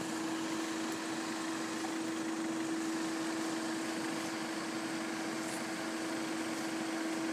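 A motor running steadily: a constant humming tone over a hiss, with no change in speed.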